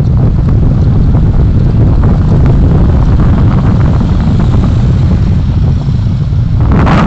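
Dashcam recording of a vehicle moving through city traffic: loud, steady low rumble of road and wind noise, with wind buffeting the microphone. Near the end a brief louder rush of noise swells and fades.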